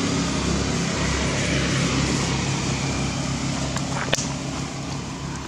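A motor engine running steadily, easing off slightly toward the end, with a single sharp click about four seconds in.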